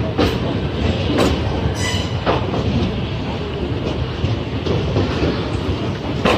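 Passenger train rolling through the station: a steady rumble with a few sharp clacks of the wheels over rail joints, and a brief high squeal about two seconds in.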